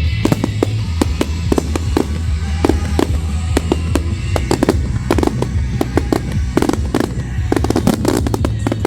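Fireworks going off in quick, irregular bangs and crackles, several a second, over loud music with heavy bass.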